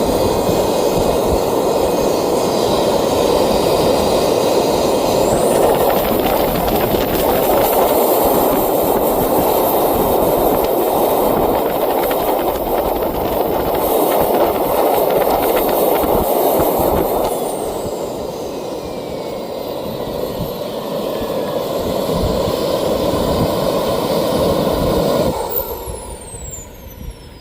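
Xicoy X45 model jet turbine running: a high whine climbs about five seconds in as it throttles up, holds, then falls back past the middle with the rushing noise easing. Near the end the rushing noise cuts off and the whine falls away as the turbine spools down after shutdown.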